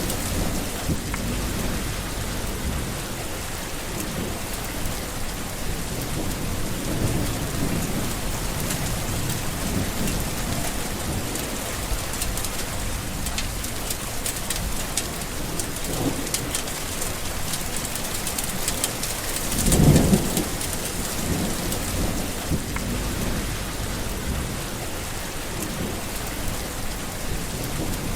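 Steady rain falling with low rolling thunder, one louder rumble of thunder about twenty seconds in.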